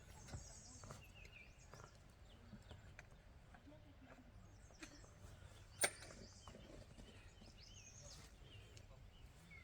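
Quiet outdoor ambience with a few faint, scattered bird chirps and one sharp click about six seconds in.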